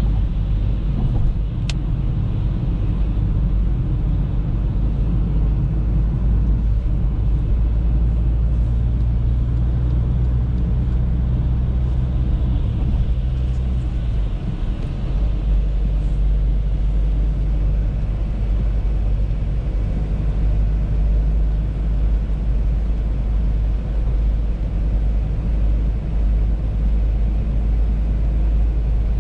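An Audi A3 driving, a steady low rumble of road and engine noise. The rumble dips briefly about halfway through, and there is a single faint tick near the start.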